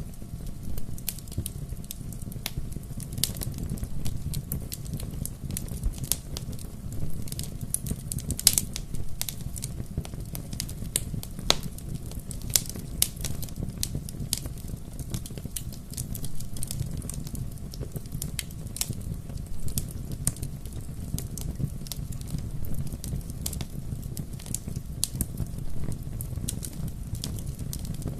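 Bonfire burning with a steady low rumble of flame and many irregular sharp crackles and pops of wood.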